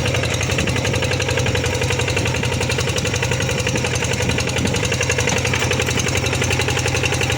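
Tractor engine running steadily with a rapid, even chugging pulse while plowing a rice paddy.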